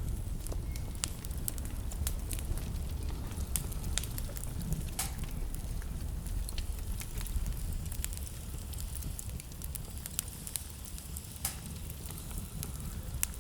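Wood fire crackling in a fireplace: scattered sharp pops and snaps, some louder than others, over a steady low rumble.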